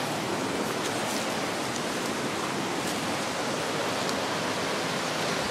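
Rushing creek water falling over rocks: a steady, even hiss.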